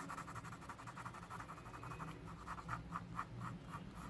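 Pencil shading on drawing paper: graphite scratching in quick back-and-forth strokes, settling into an even rhythm of about four or five strokes a second in the second half.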